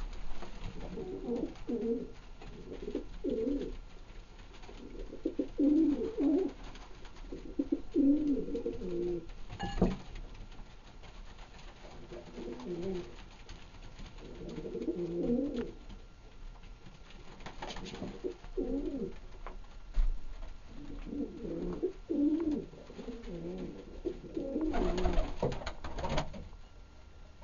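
Domestic pigeons cooing in repeated low bouts, one after another. There is a sharp knock about ten seconds in and a brief rustle near the end.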